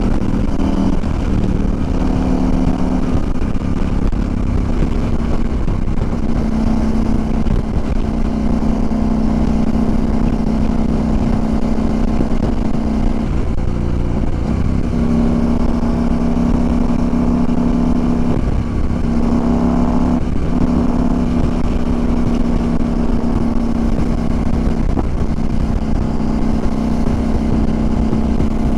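CFMOTO Ibex 800 motorcycle's parallel-twin engine running at steady road speed, with wind rushing over the microphone. The engine pitch dips and steps back up a few times, around two, fourteen and nineteen seconds in.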